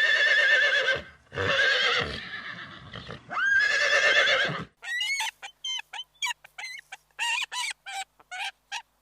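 Horse whinnying: three long, wavering neighs, then a quick run of short calls in the second half.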